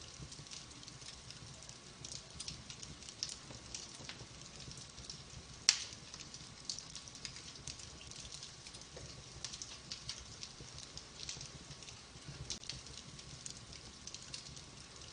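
Wood fire burning in a fireplace, with a steady soft hiss and frequent small crackles, and one loud sharp pop a little before the middle.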